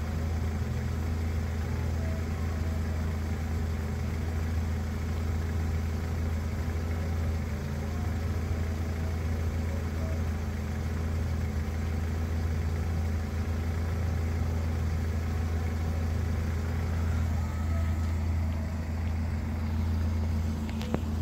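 BMW 3 Series (E46) engine idling steadily, with a short click near the end.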